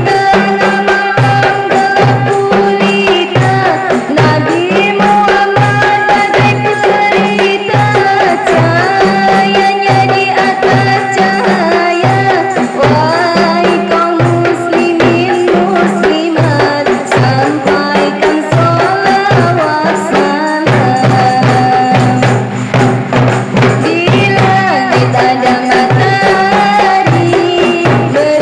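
Qasidah music: a steady, even drum pattern with tambourine jingles under a melody line that moves in pitch.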